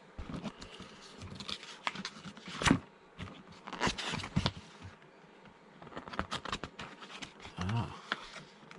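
Packaging being handled during an unboxing: irregular rustling and scraping of packing material, with scattered knocks, the loudest a little under three seconds in.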